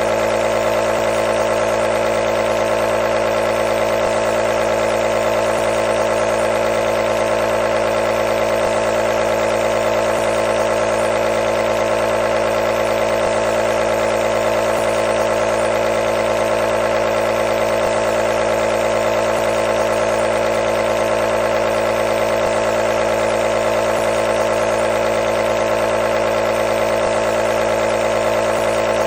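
Nebulizer's compressor running continuously with a steady, unchanging hum.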